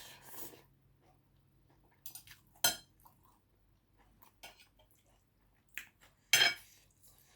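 Cutlery clinking against a dish while eating: two sharp clinks, one a little under 3 seconds in and a louder one about a second before the end, with softer taps and ticks between.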